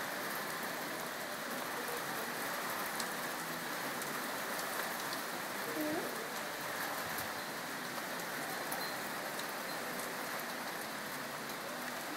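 Rain falling steadily: an even hiss with scattered ticks of individual drops.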